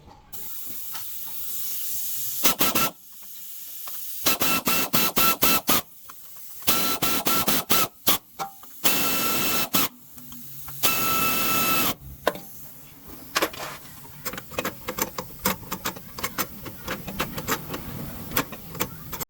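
Repeated bursts of pressurized hissing, some short and some about a second long, the longer ones carrying a steady whistle. The second half holds a quieter run of fast clicks.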